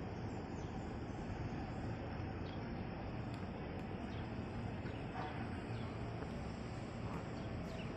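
Steady background noise of a railway station, with faint scattered high ticks and chirps.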